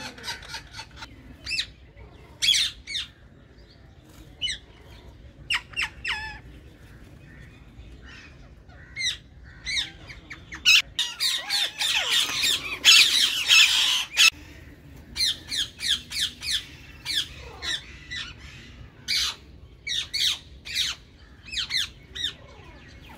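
Green Indian ringneck parakeets squawking in a colony: many short, shrill calls in quick succession, with a loud stretch of overlapping calls about halfway through.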